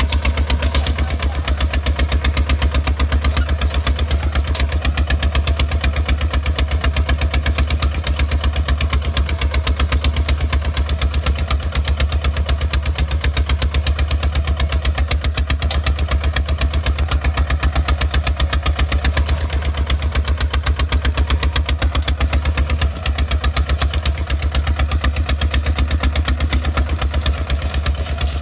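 Kubota RT 155 walking tractor's single-cylinder diesel engine running steadily with a fast, even chug, dipping briefly once about three-quarters of the way through.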